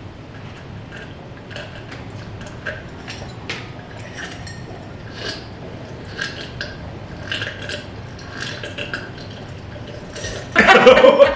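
Light clicks and taps of cutlery and dishes during a meal, scattered irregularly. A short, loud burst of voice comes near the end.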